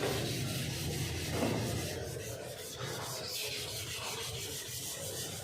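Sandpaper rubbing steadily over cured body filler on a car panel, sanding the filler down thin, over a low steady hum.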